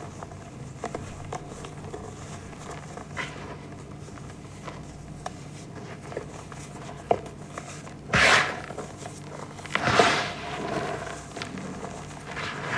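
Reformed gym chalk being crushed and crumbled, with scattered soft crackles and two louder crunches about eight and ten seconds in. A faint steady hum runs underneath.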